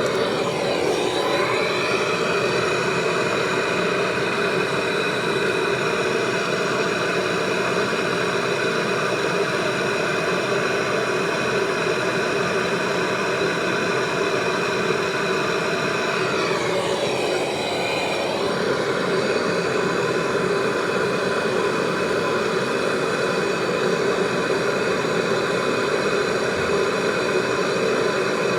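A machine's motor running steadily, a noisy hum with several held tones. About a second in, and again around 17 seconds, the pitch dips briefly and comes back.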